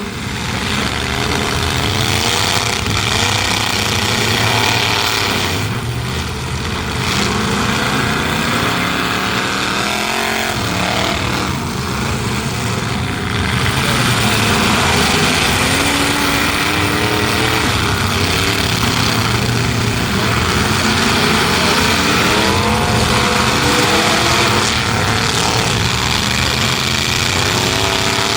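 Several unmuffled truck engines running hard in a demolition derby, revving up and down over one another in a constant loud din.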